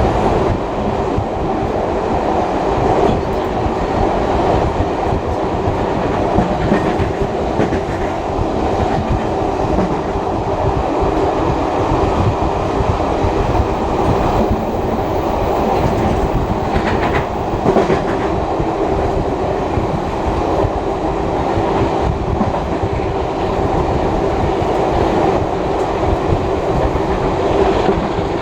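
Heritage passenger train hauled by a steam locomotive, running along the line and heard from on board: a steady rumble with wheels clattering on the rails.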